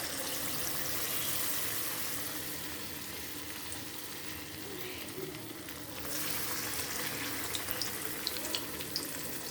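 Chicken frying in hot oil: a steady sizzle, with scattered small pops and crackles near the end.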